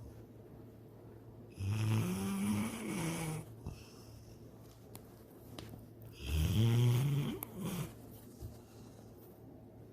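A sleeping dog snoring: two long snores of about two seconds each, roughly four seconds apart, each wavering in pitch with a hissing edge, and quiet breathing between them.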